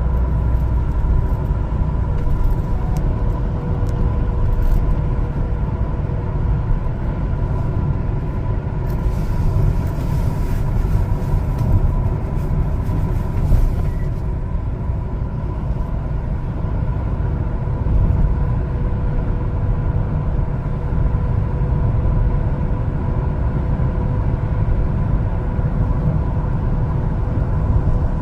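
A 1-ton LPG cargo truck driving on the road: a steady low rumble of engine and road noise with a faint constant whine. There is a stretch of extra hiss about a third of the way in.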